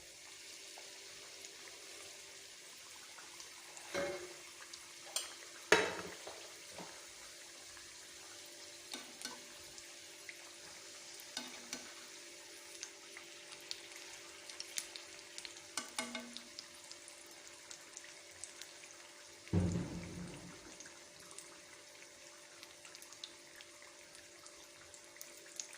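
Samosas deep-frying in hot oil: a steady sizzle with many small crackles. A few knocks stand out, the loudest a low thump about 20 seconds in.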